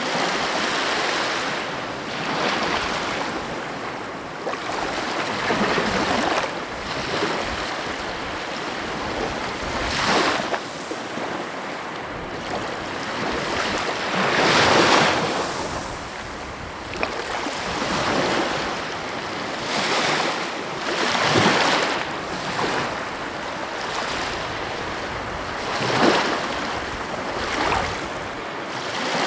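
Sea waves washing onto the shore: a continuous surf hiss that swells and breaks every few seconds, the largest wave about halfway through.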